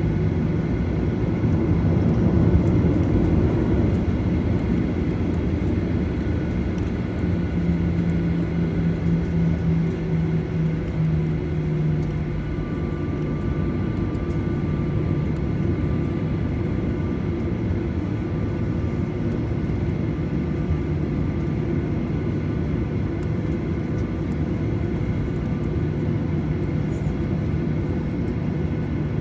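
Boeing 737-900's CFM56-7B jet engines running with a steady roar and a humming whine; the pitch of the hum steps down slightly about twelve seconds in.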